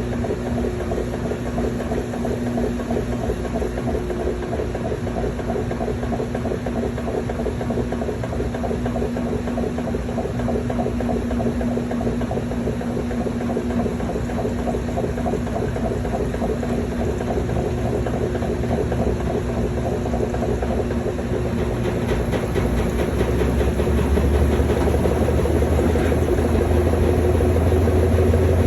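Washing machine in its spin cycle: the drum spinning with a steady mechanical hum and rattle, growing louder with a deeper hum in the last few seconds.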